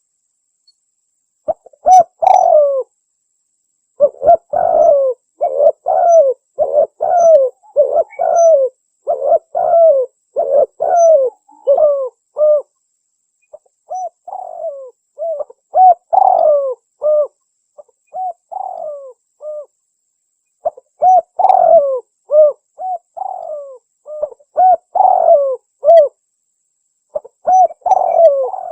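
Spotted dove (tekukur) lure call: loud, repeated runs of short hooked coos, several notes to a phrase, with brief pauses between the phrases.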